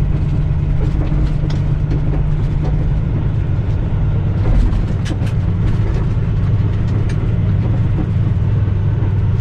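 Semi-truck's diesel engine running, heard as a steady low drone inside the cab, its pitch dropping slightly about halfway through. A few faint clicks sound above it.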